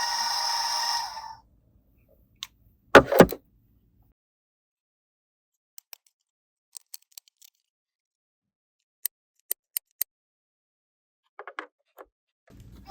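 Small plastic toy pieces being handled: scattered sharp clicks and taps, with a louder double knock about three seconds in. A steady tone stops about a second in.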